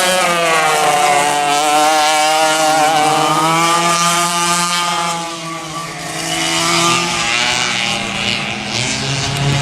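Racing kart engines running hard, their pitch rising and falling with the throttle, with a short dip in revs and loudness about halfway through before pulling up again.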